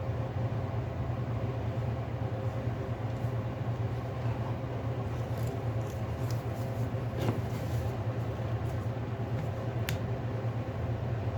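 Steady low hum with a few faint, sharp clicks and ticks, the loudest about seven seconds in and another near ten seconds.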